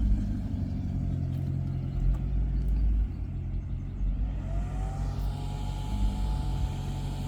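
Maserati GranTurismo V8 running at low revs with a steady, deep exhaust rumble. About four seconds in, a higher tone rises and then holds steady over the engine.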